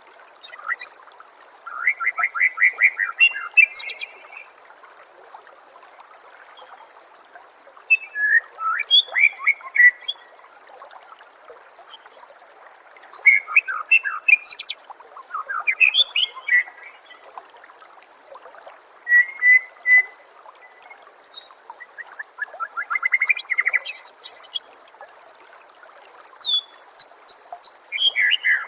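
White-rumped shama (murai batu) singing in short phrases of quick whistles and trills, with gaps of a few seconds between them, over a steady trickle of running water.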